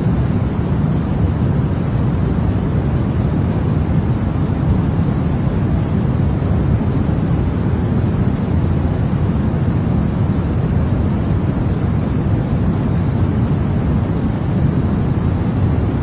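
Continuous baby-sleep white noise: a steady, unchanging hiss weighted toward the low end, a deep rushing sound without any tone or rhythm.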